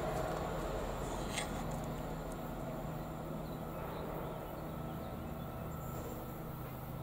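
ICE high-speed train running away into the distance, its low rumble slowly fading. A short faint squeak about a second and a half in.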